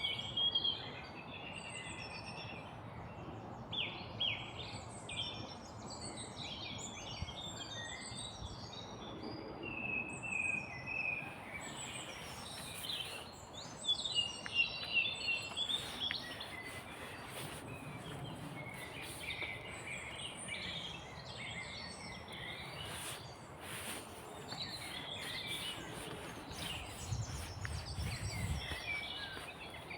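Many small woodland birds singing and calling at once: overlapping chirps and short trills over a steady background hiss. A few sharp clicks come in the middle, and a brief low rumble comes near the end.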